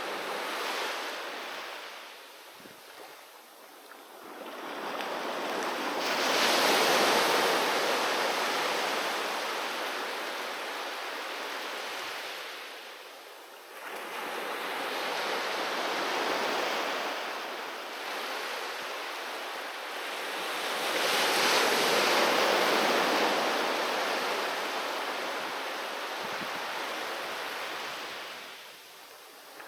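Ocean waves breaking on a beach and washing back, rising and falling: two big swells about fifteen seconds apart, with quieter lulls between.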